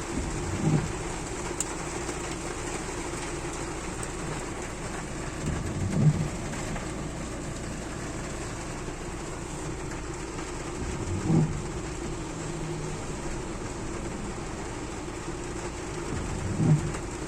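Steady rain falling, with a constant low hum beneath it. Four short low thuds come at even intervals, about five seconds apart.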